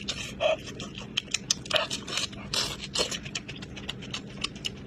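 Wet chewing and lip smacking while eating ox trotter, a dense, irregular run of sticky clicks and smacks.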